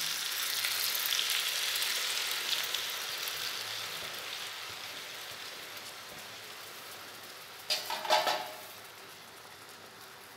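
Marinade-coated chicken legs sizzling in oil on a flat tawa; the sizzle fades steadily. A brief louder sound about eight seconds in.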